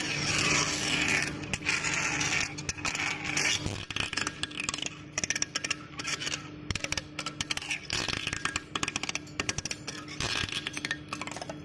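Factory machinery working metal: continuous scraping and rapid irregular clattering over a steady machine hum.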